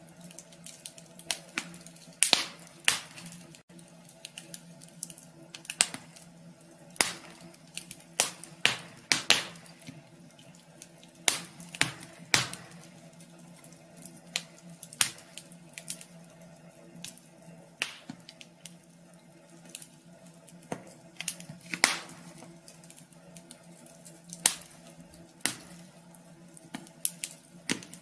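Wood fire crackling in a wood stove: irregular sharp pops and snaps of varying loudness, over a faint steady hum.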